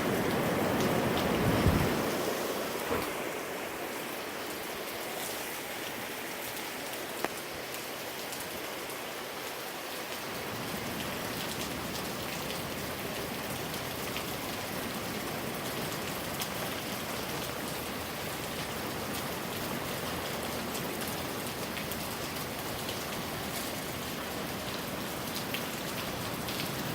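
Steady rain falling, with scattered ticks of drops hitting close by. A gust of wind rumbles on the microphone for the first two seconds, then fades.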